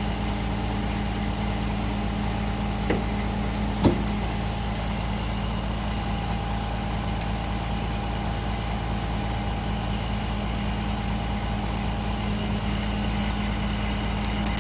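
Heavy truck diesel engine running steadily at a fixed speed during a winch recovery pull, with two brief knocks about three and four seconds in.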